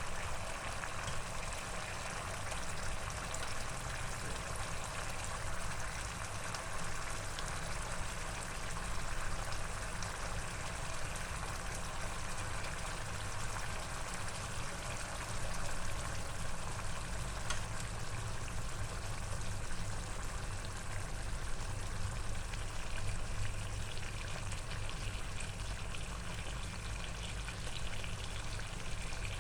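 Coconut-milk gravy simmering in a pot with pieces of pre-fried chicken: a steady bubbling and crackling sizzle, with a low steady hum underneath.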